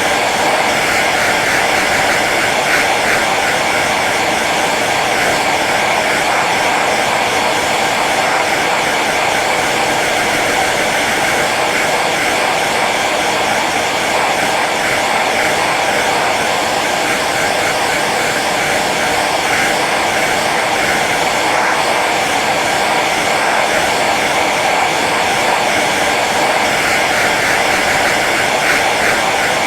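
Hair dryer running steadily on its low setting: an even, unbroken whooshing blow of air with a faint motor hum.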